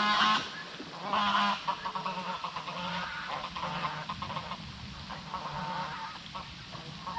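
Large birds giving a series of honking calls, loud at the start and again about a second in, then fainter, irregular calls continuing.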